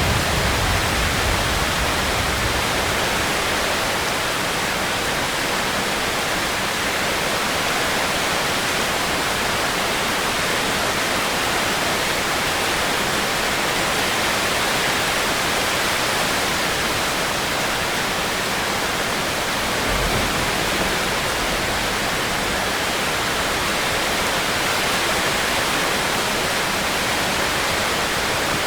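Steady, heavy rain falling, an even wash of noise, with a brief low rumble at the start and again about two-thirds of the way through.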